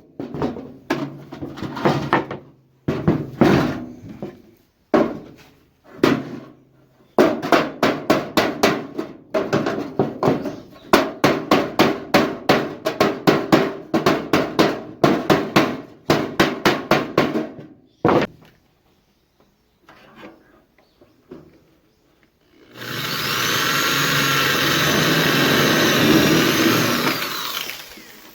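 Runs of rapid hammer blows, about four a second, broken by short pauses, during shaping of the sheet-metal can. After a quiet gap, a power tool runs for about five seconds near the end, its whine rising as it spins up and falling as it stops.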